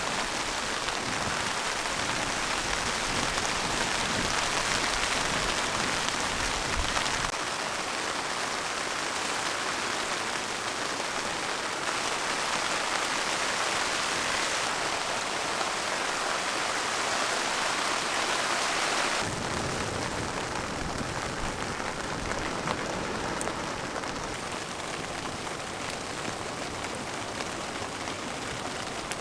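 Steady rain falling, an even hiss that shifts in tone abruptly a few times.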